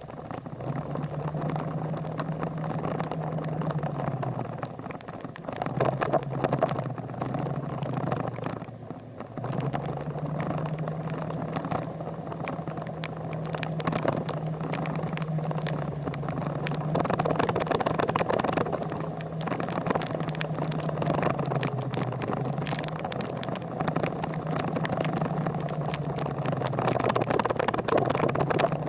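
Motorcycle engine running on the road, its hum stepping up and down between two pitches, with wind and road noise and scattered short clicks.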